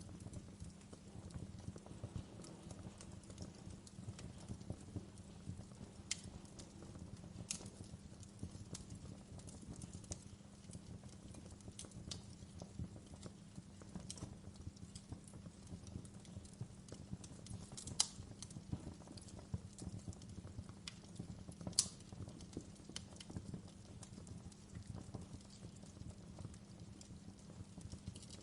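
Wood fire crackling: a dense, continuous low crackle of small snaps, with sharper pops every few seconds, the loudest two about two thirds and three quarters of the way through.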